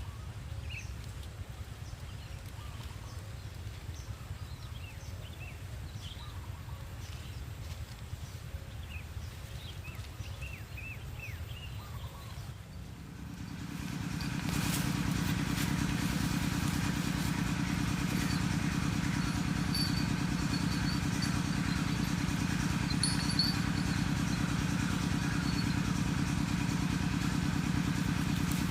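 Faint outdoor background with a few short high chirps, then about halfway through a louder, steady, low motor-like drone starts and holds.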